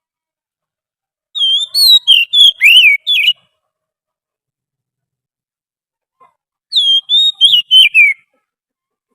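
Oriental magpie-robin (kacer) song: two phrases of quick, varied whistled notes, each about two seconds long, separated by a silent pause of about three seconds.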